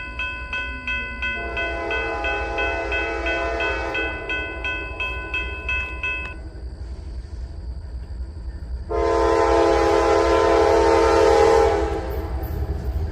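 Diesel locomotive's multi-note air horn sounding twice: a long blast of about six seconds, then, after a short pause, a louder blast of about three seconds, over the low rumble of the train.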